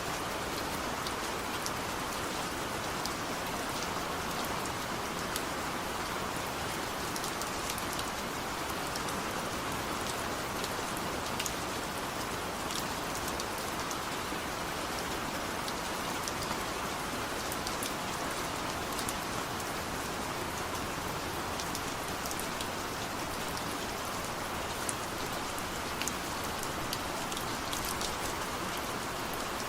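Steady rain falling, an even hiss of rainfall with many small drop ticks scattered through it.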